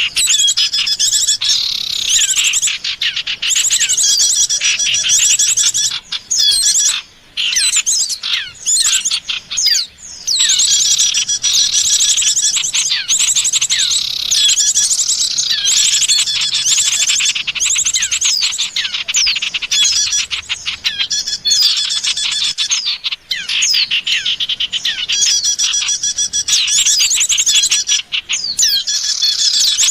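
A dense, continuous chorus of many small songbirds chirping and trilling rapidly in high-pitched notes: a bird-lure recording made to call in wild birds.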